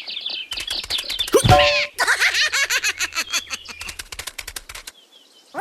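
Cartoon-style sound effects: chirpy, giggly voice sounds and a sliding boing, followed by a fast string of short chirps that stops shortly before the end.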